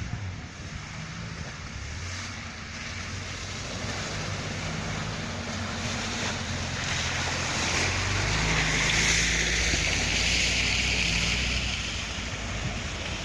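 An off-road vehicle's engine working under load in mud, its pitch stepping up and down, with a rush of splashing and spraying noise from the wheels that builds about halfway in and peaks near the end.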